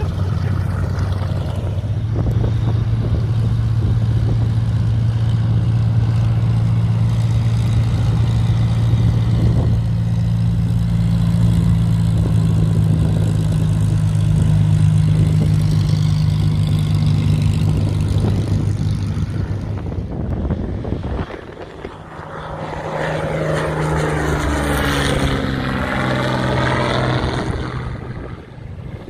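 Light propeller aircraft taking off, the engine running steadily at full power for about twenty seconds. After a sudden drop about two-thirds of the way through, another propeller plane passes, its engine note falling in pitch as it goes by.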